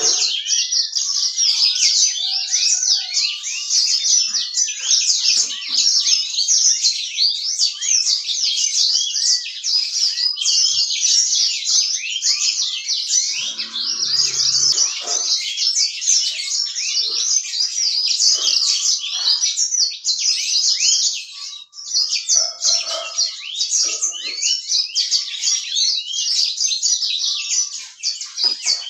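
Yellow-fronted (Mozambique) canary singing on and on in full song, a fast, high twittering run of quick chirps with hardly a pause.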